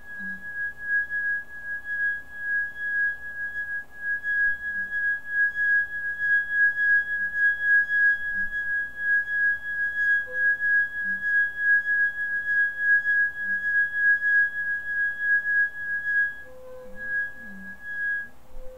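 A steady high-pitched hum-like tone with faint higher overtones, wavering quickly in loudness and breaking off briefly near the end; it is played back as a recording that the uploader presents as the sound of magma moving under Yellowstone.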